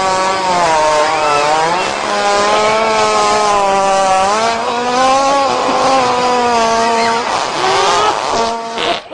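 A hippopotamus letting out one long, loud fart while defecating, a buzzing tone that wavers slightly in pitch and cuts off near the end.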